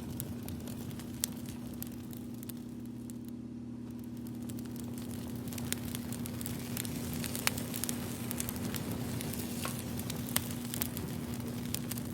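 Crackling fire: a steady hiss with scattered sharp pops at irregular moments, over a low steady hum.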